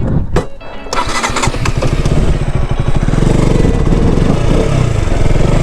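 Motorcycle engine starting about a second in, then running with a steady, even pulse.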